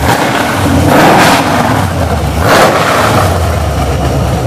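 Chevrolet 604 small-block V8 race engine running, revved twice with quick throttle blips about one second and two and a half seconds in, dropping back to a steady idle rumble between them.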